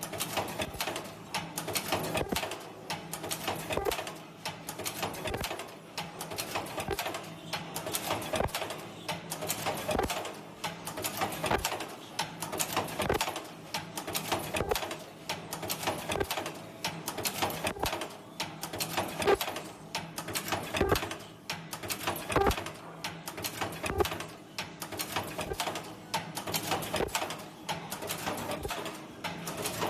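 Semi-automatic ultrasonic mask earloop welding machine running: a rapid, irregular clatter of clicks and knocks from its mechanism over a faint steady hum.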